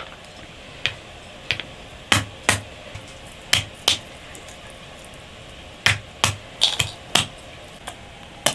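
A series of sharp knocks, mostly in pairs about half a second apart, with a pause in the middle.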